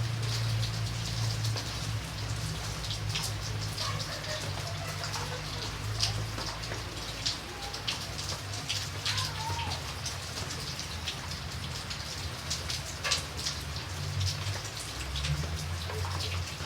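Steady rain, with individual drops ticking sharply over an even hiss and a low rumble underneath.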